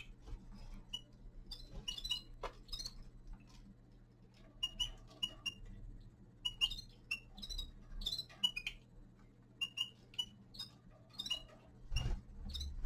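Small caged finches giving short, repeated chirping calls, mixed with sharp irregular ticks and clicks.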